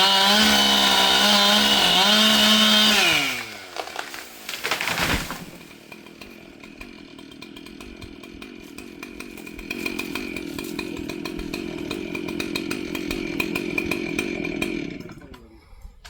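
Chainsaw cutting at full throttle, its pitch dipping under load, then falling away as the throttle is released about three seconds in. A short loud crackle follows about five seconds in, then the saw idles quietly until it drops off near the end.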